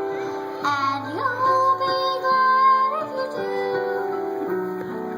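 Singing over instrumental accompaniment: a slow melody in long held notes.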